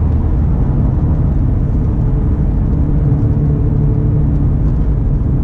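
Acura NSX's twin-turbo V6 running while the car drives along, heard from inside the cabin as a steady low engine and road rumble, its engine tone shifting slightly with the revs.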